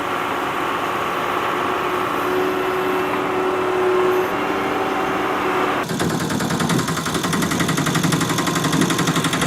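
Engine running steadily; about six seconds in it changes abruptly to a faster, rapid rattling run.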